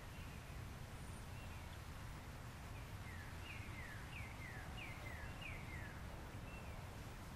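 Outdoor ambience: a steady low rumble of background noise, with a bird calling a quick series of short down-slurred whistled notes about three to six seconds in.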